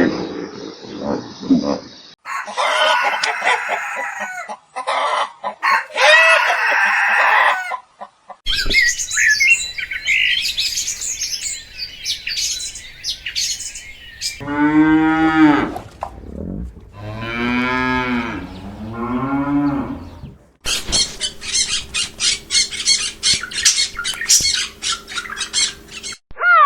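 Chickens squawking and clucking, then a cow mooing about three times in long, bending calls. Near the end a fast, even rhythmic sound from another clip takes over.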